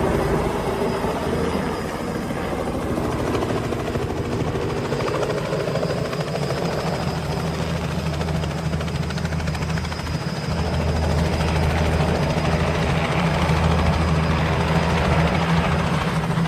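Robinson R66 turbine helicopter running in flight, a steady rotor and engine noise with a low hum that grows somewhat louder about eleven seconds in.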